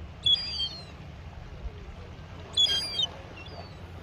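A young gull calling twice, high-pitched, slightly falling cries of about half a second each, the first near the start and the second about two and a half seconds in.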